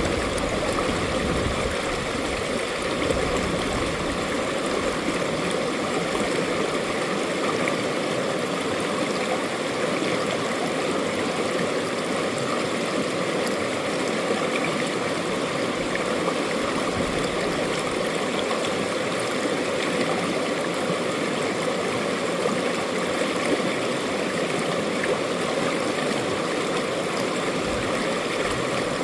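Mountain valley stream rushing and gurgling over rocks, a steady, even flow of water.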